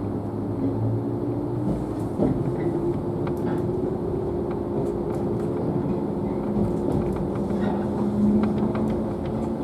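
JNR 113 series electric train running along the line, heard from inside its motor car. A steady traction-motor and gear hum sits over the rumble of wheels on rail, with a few faint clicks.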